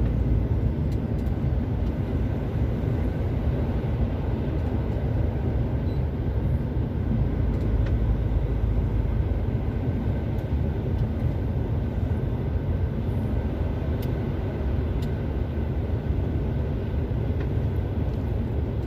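Steady low rumble inside a long-haul truck's cab as it drives on a snow-covered, slushy unplowed road: engine running with a faint steady hum, and tyre and road noise.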